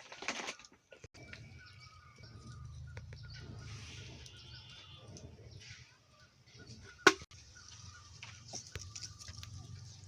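Small birds chirping over a steady low hum, with a single sharp knock about seven seconds in.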